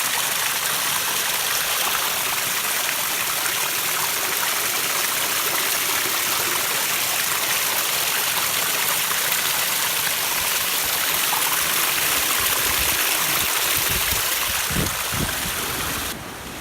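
Stream water rushing and splashing steadily over rocks, with a few low rumbles about three seconds before the end; the level drops suddenly just before the end.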